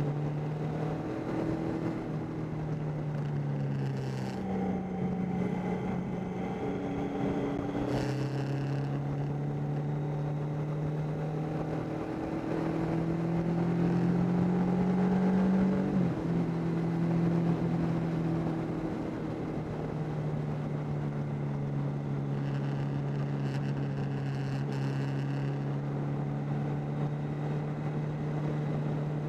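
Triumph Tiger 800's three-cylinder engine running under way, its pitch climbing and dropping with throttle and gear changes, including a sudden drop about halfway through.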